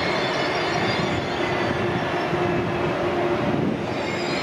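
ICE high-speed train rolling past along the platform: a steady rolling rumble with a held hum over it, easing slightly near the end.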